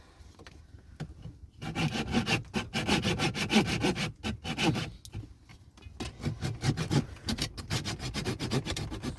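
Repeated rough rubbing or scraping strokes, giving way about halfway through to a fast run of short strokes.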